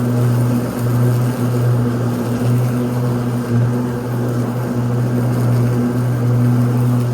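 Ryobi 80V electric riding lawn tractor mowing, its spinning blades giving a steady low hum over the rush of cut grass, with brief dips in the hum about once a second.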